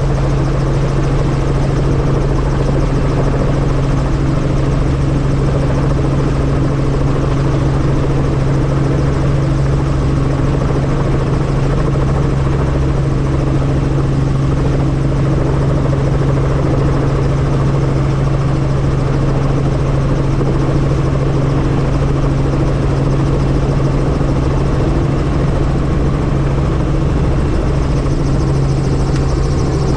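Helicopter in flight, heard from on board: a steady, unbroken drone of rotor and engine with a noisy hiss over it.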